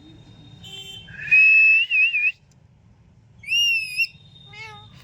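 Pet parrot whistling: a loud whistle about a second long that warbles at its end, then a second, shorter whistle, followed near the end by a short wavering call.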